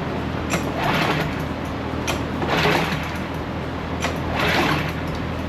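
Troy-Bilt pressure washer's small engine running steadily, with a hissing rush of water that surges about every two seconds, each surge starting with a sharp click. The pump is not building pressure, and water is leaking from somewhere inside the unit.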